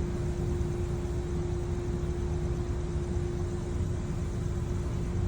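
A steady low rumble with a constant, unchanging hum, as of a running motor or engine.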